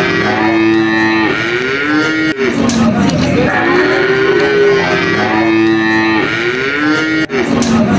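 Cattle mooing: long, drawn-out moos one after another, each broken off abruptly, at about two and a half seconds in and again near the end.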